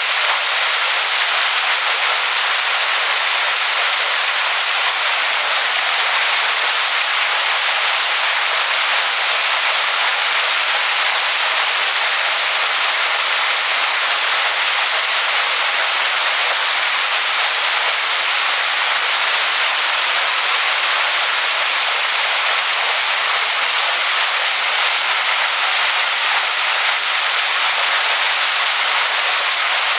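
Waterfall splashing onto rocks: a steady, even hiss of falling water, bright and high with little low rumble.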